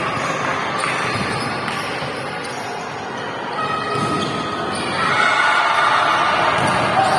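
Volleyballs being struck and bouncing on a hall floor during practice, with repeated sharp knocks over a busy, echoing background of activity.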